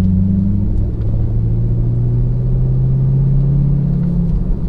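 C5 Corvette's V8 running steadily on the road, heard from inside the cabin over low road rumble, its engine note stepping down in pitch about a second in.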